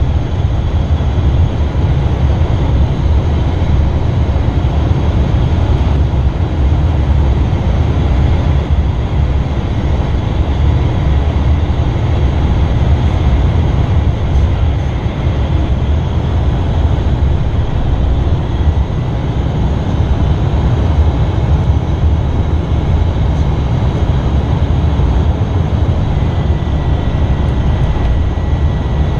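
Steady in-flight noise aboard an Embraer Phenom 300 business jet on approach: airflow and twin turbofan engine sound, a continuous low rumble. A faint, steady, high tone joins near the end.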